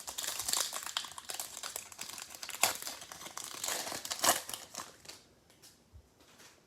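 Plastic trading-card pack wrapper crinkling as it is torn open and handled, dense and crackly for about five seconds, then stopping.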